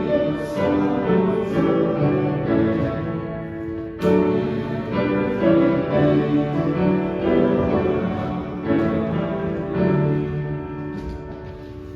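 Church music played on a keyboard instrument, sustained chords moving phrase by phrase, with a fresh phrase starting firmly about four seconds in and the music growing quieter toward the end as it winds down.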